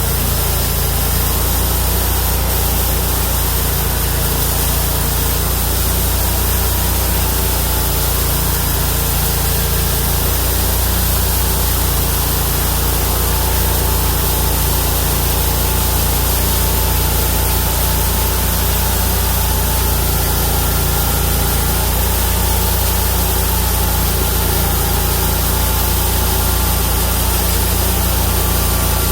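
Homemade bandsaw mill's 31 hp engine running steadily under load while its carbide-tipped band blade saws through a Chinese toon log.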